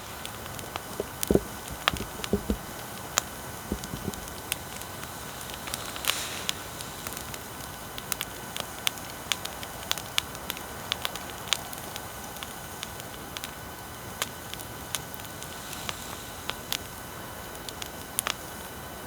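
Bonfire crackling: irregular sharp pops and snaps all through, over a steady hiss, with a few heavier, duller pops in the first few seconds. A faint steady whine of equipment noise sits underneath.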